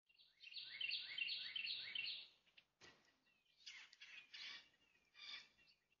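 A songbird singing a song of about five quickly repeated phrases in the first two seconds, followed by a few shorter, scattered chirps.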